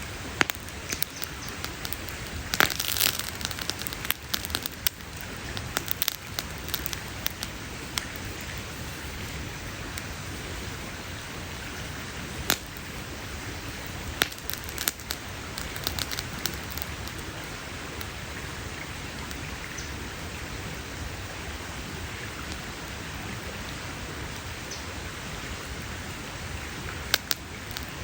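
Campfire burning with a steady hiss and irregular sharp crackles and pops from the wood, denser in the first few seconds and again about halfway through.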